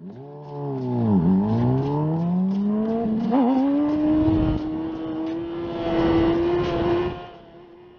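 Motorcycle engine revving: its pitch dips about a second in, climbs steadily for a couple of seconds, then holds high before easing off near the end.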